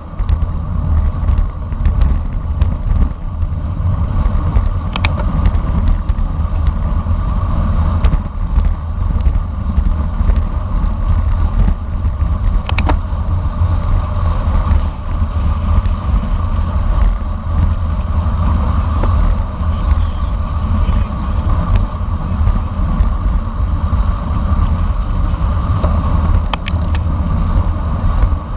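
Wind buffeting the microphone and steady road noise from a bicycle ridden at racing speed, a continuous low rumble with a scattering of sharp clicks.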